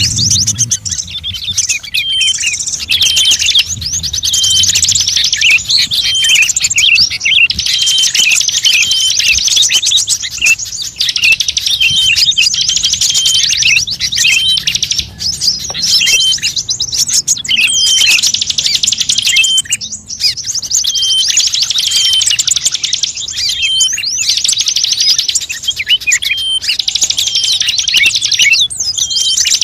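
Dense, continuous chirping and calls of small songbirds, many rapid high notes overlapping, with a short hooked call repeated every second or two, as played in a bird-luring recording.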